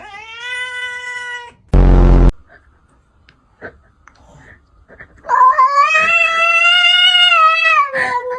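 A cat meows once, then a loud, buzzy blast lasting about half a second cuts in and stops abruptly. After a quiet spell the cat gives a long, drawn-out, wavering yowl of about three seconds.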